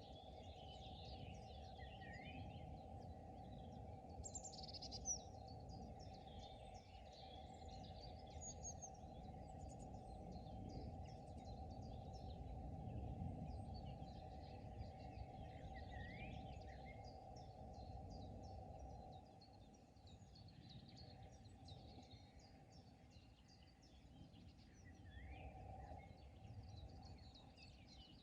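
Many small birds chirping and trilling, calls overlapping all the way through, over a quiet steady low rumble. A single brief click about five seconds in.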